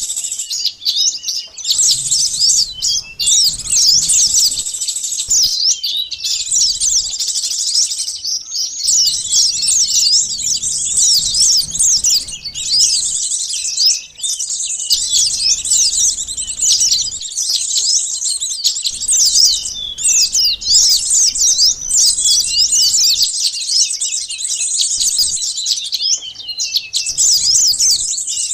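Dense, unbroken chorus of fast, high-pitched chirps and twitters from small songbirds, many calls overlapping with only brief lulls: a lure recording made to draw in small birds such as sunbirds and flowerpeckers.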